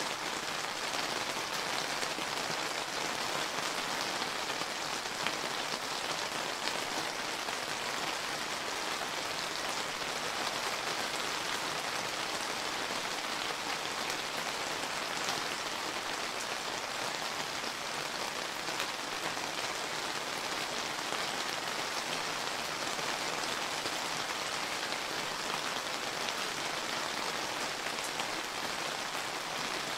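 Steady summer rain falling on surfaces, an even hiss sprinkled with many small drop ticks.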